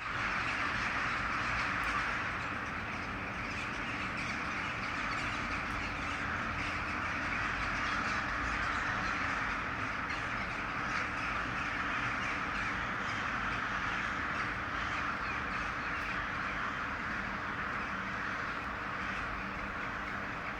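Many crows cawing at once, their calls overlapping into a steady, unbroken chorus.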